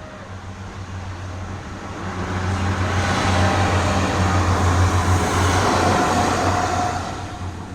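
Passenger train passing over the level crossing: a low hum and rushing noise that swell to a peak about three to six seconds in, then fade as it goes by.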